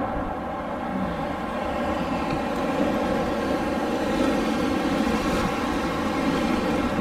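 Steady rushing air noise with a constant many-toned hum running through it, swelling a little a few seconds in.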